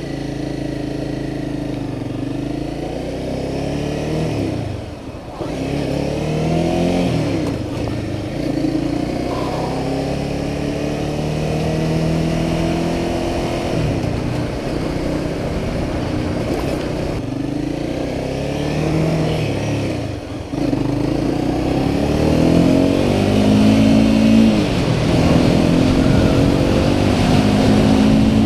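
Honda CBR300R's single-cylinder engine under way, its pitch climbing as it revs up and dropping back several times as the rider works through the gears, with brief drops in level about five seconds in and again about twenty seconds in.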